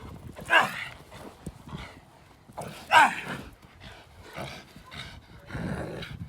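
A dog barking during bite-suit work: two loud barks about half a second and three seconds in, with softer barks and noises in between and near the end.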